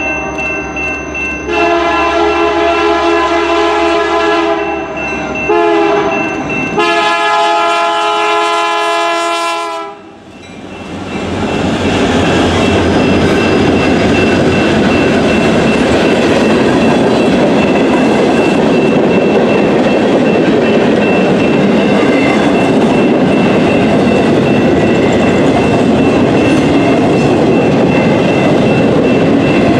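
Train air horn sounding a chord of several notes in a series of blasts, the last and longest cutting off about ten seconds in. Then the train passes close by with a loud, steady rush and rumble of wheels on rail.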